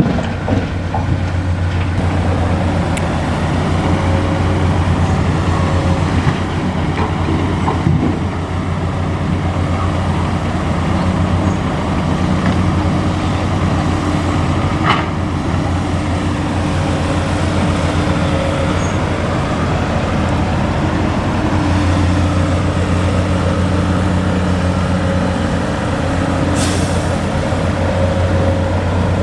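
Nissan Diesel truck's diesel engine running steadily, with a short hiss near the end.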